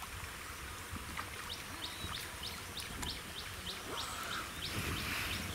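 A bird calling in a steady run of short, high chirps, about three a second, starting about a second and a half in.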